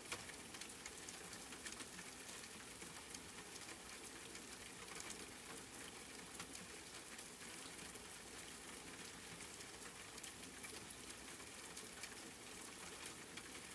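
Wood fire crackling in a fireplace: a steady hiss with frequent small pops and snaps.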